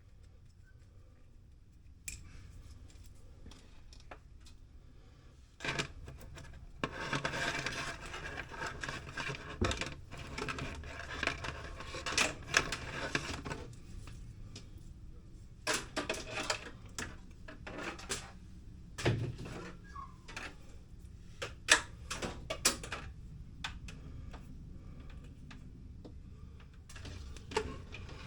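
Hands working with electrical cable and small tools: a stretch of rustling about six seconds in, with scattered sharp clicks and rattles, and a quicker run of clicks in the second half.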